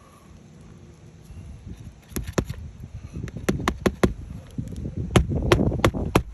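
Hammer tapping on asphalt roof shingles and nails: a series of sharp, irregular taps starting about two seconds in, in little clusters, over low wind rumble on the microphone.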